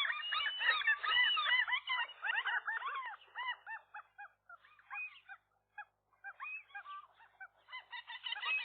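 Several gulls calling over and over at once, a dense run of short rising-and-falling calls that thins out to scattered calls midway and builds up again near the end.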